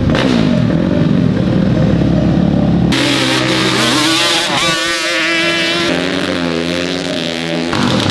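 Off-road racing engines revving hard and accelerating. About three seconds in the sound changes abruptly to a single engine whose pitch climbs and wavers.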